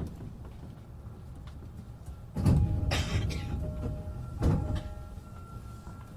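Passenger doors of an E233-7000 series electric train sliding shut with a heavy thud about two and a half seconds in, and a second thud about two seconds later, while steady electronic tones sound over them.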